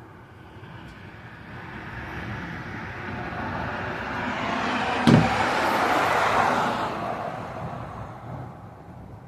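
A car passing by on a rain-wet road: the tyre hiss swells up, peaks after about six seconds, then fades away. A single sharp click comes about five seconds in.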